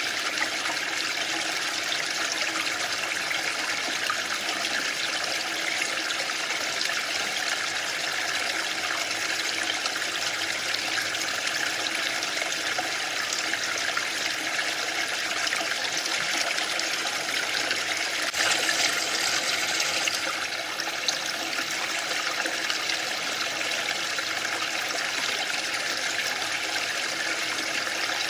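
Waterfall: falling water rushing steadily, with a brief slightly louder, brighter surge about two-thirds of the way through.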